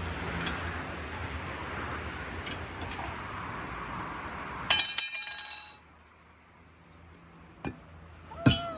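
Steady background rumble, then a loud, brief clatter of hard metal or glass objects with ringing, about five seconds in, after which the sound drops away suddenly.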